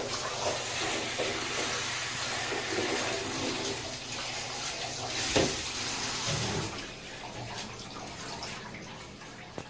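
Water running steadily, like a shower spraying in a bathtub, easing off after about seven seconds, with a single sharp knock about five seconds in.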